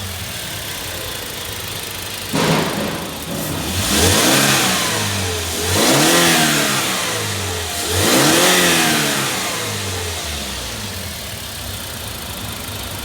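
Toyota Hiace 2.7-litre four-cylinder petrol engine idling, then revved three times from about two seconds in. Each rev rises in pitch and falls back to idle.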